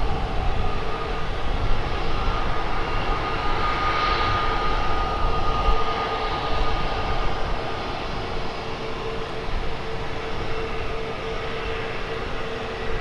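Airbus A320neo jet engines running with a steady whine over a broad rush, easing off gradually in the second half.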